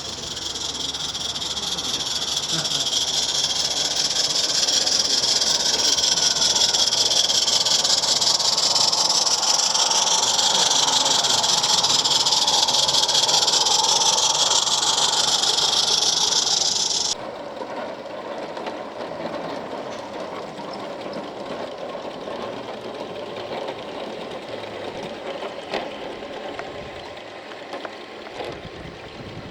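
Steam hissing loudly and steadily from a 16mm-scale live-steam garden locomotive; it cuts off suddenly about seventeen seconds in, leaving quieter running sounds.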